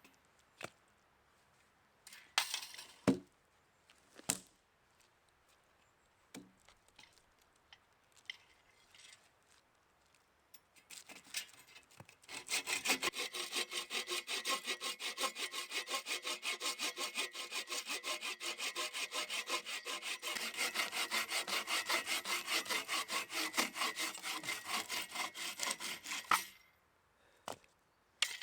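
Hand saw cutting wood: a few scattered knocks and handling sounds, then a long run of quick, even sawing strokes that stops shortly before the end.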